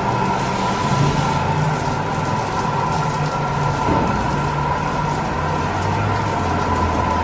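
In-bay automatic car wash machinery running, with a steady high whine over a low hum that shifts in pitch a few times, and a constant hiss of spraying water.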